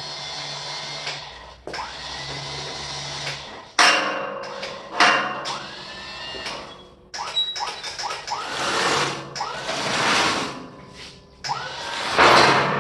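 A machine's engine running in uneven surges that start and stop abruptly, with short whines rising in pitch, as it is worked to lift and move a heavy load.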